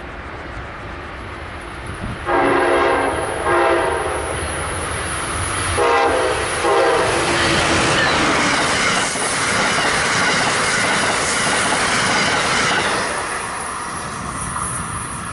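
An Amtrak ACS-64 electric locomotive sounds its horn four times, in two pairs: a long and a short blast, then two shorter ones. The passenger train then passes at speed with a loud rush of wheel and rail noise, which fades near the end.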